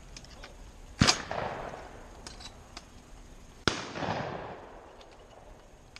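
Two shotgun shots at clay targets, about two and a half seconds apart, each followed by its report echoing away.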